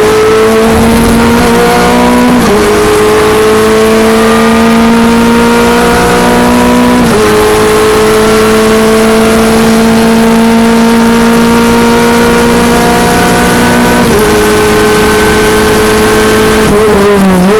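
Renault Clio Cup race car's engine at full throttle, pulling long through the gears with three upshifts, each a sudden drop in pitch followed by a slow climb. Near the end the pitch wavers up and down as the car comes off full throttle.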